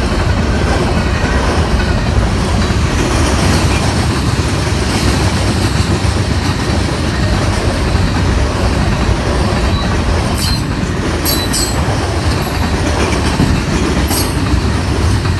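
Union Pacific local freight train rolling past close by: a loud, steady rumble of wheels on the rails. A few short high-pitched wheel squeals come about two-thirds of the way through and once more near the end.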